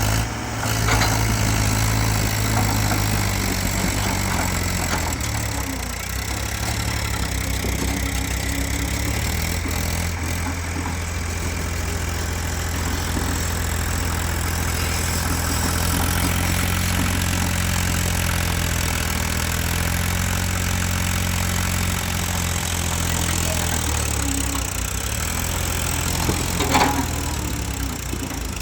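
Diesel tractor engine running steadily, its note shifting a couple of times as the load or throttle changes, with a brief knock near the end.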